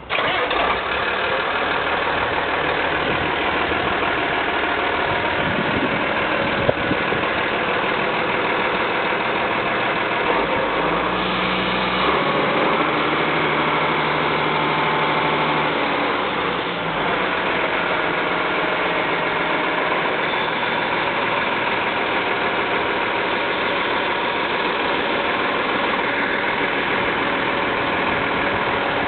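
Case IH MX110 tractor's six-cylinder diesel engine catching right at the start and then idling steadily. Between about 11 and 17 seconds in, its note changes, with a steady low hum added, before settling back to the same idle.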